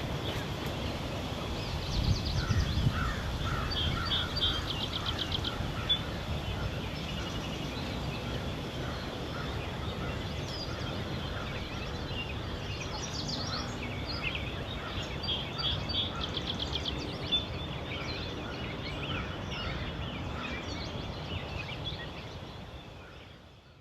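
Several birds chirping and trilling, with quick runs of repeated notes, over a low wind rumble that gusts about two seconds in. The sound fades out near the end.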